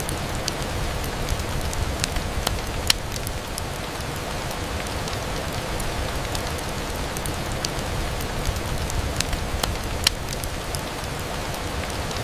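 Steady rain, heard as an even hiss, with scattered sharp ticks over it; two louder ticks stand out, about three seconds in and near the end.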